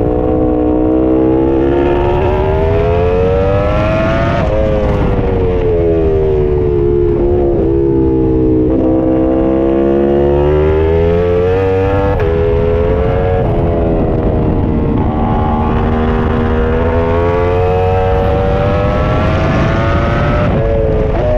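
Ducati superbike engine heard from on board at racing speed: its pitch climbs under full throttle and drops sharply at each gearshift, and falls away with short throttle blips on downshifts while braking, with wind noise underneath.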